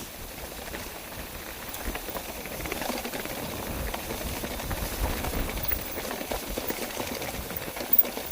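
Footsteps crunching on a dry mountain trail: irregular steps with crackling and rustling underfoot, and a low rumble through the middle.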